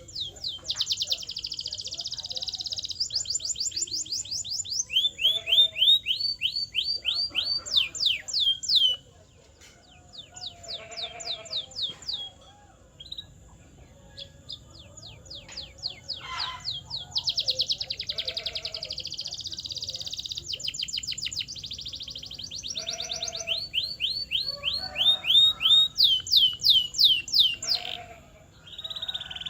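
Canary singing: fast trills of repeated high sweeping notes, each run lasting a second or two before it switches to a new pattern. The song is softer and more broken from about nine to sixteen seconds in.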